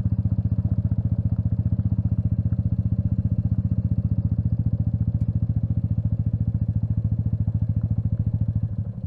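Royal Enfield Meteor 350's single-cylinder engine idling with a steady, even pulse at constant pitch, stopping near the end.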